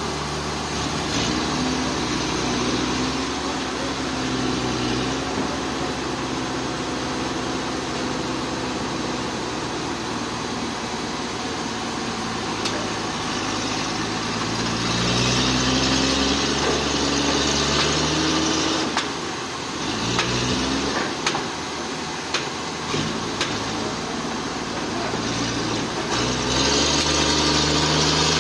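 Portable sawmill's engine running, its pitch rising and falling as it works. There are two stretches of louder hissing noise, one about halfway through and one near the end.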